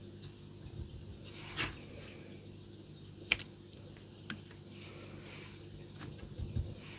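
Scattered small clicks and taps of colouring pens being handled against a craft desk, the sharpest about halfway through, over a faint steady hum.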